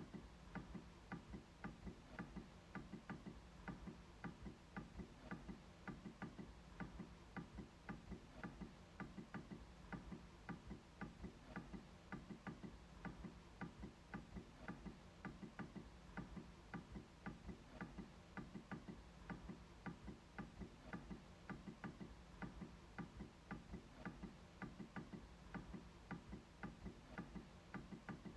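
MacBook trackpad being clicked over and over: a steady run of light, faint clicks, a few each second.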